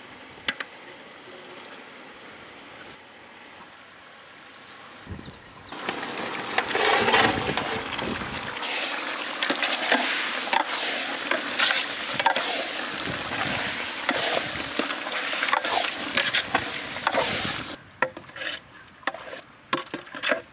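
Raw prawns tipped into hot biryani masala in a large metal pot over a wood fire, starting to sizzle about five seconds in, then a long metal ladle stirring and scraping them through the pot. The sizzling and scraping quieten about three seconds before the end.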